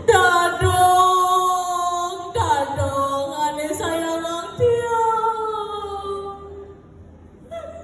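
A single voice singing unaccompanied, a sung passage within a Balinese satua (folk-tale) telling: three long held phrases, each sliding slowly down in pitch, fading out near the end.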